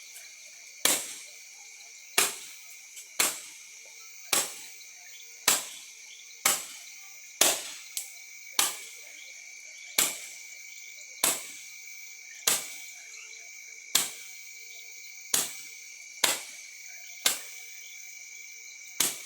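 A firework going off in a long series of sharp bangs, about one a second, each one seeming to be the last before another follows. Crickets keep up a steady high chirring underneath.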